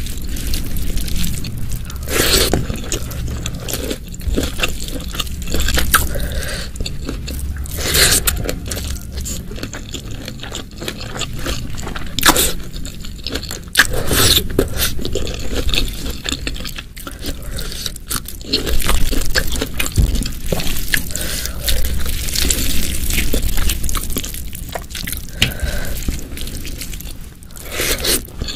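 Close-miked eating sounds: a person chewing and biting food, with crisp crunches and sharp clicks now and then.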